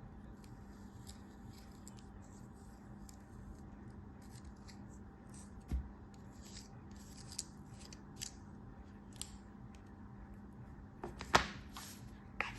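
A blade cutting with crisp, crackling clicks, scattered throughout, with a dull thump about halfway and one loud sharp crack near the end.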